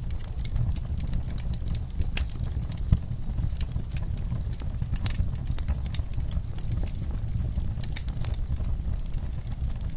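Wood fire burning in a fireplace: a steady low rumble of flames with frequent irregular crackles and pops, one louder pop about three seconds in.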